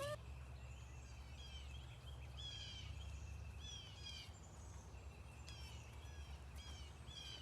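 Faint bird calls outdoors: a string of short, high chirps, each sliding downward, repeating every half second to a second, over a low steady rumble.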